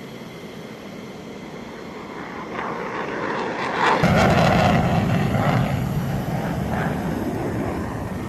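F-16 fighter jet engine noise building from about two seconds in, then a sudden loud roar about four seconds in that holds, easing slightly, to the end.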